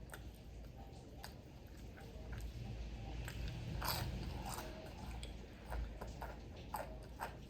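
Close-up mouth sounds of someone biting and chewing crunchy fried food: a string of wet crunches and smacks, loudest about four seconds in.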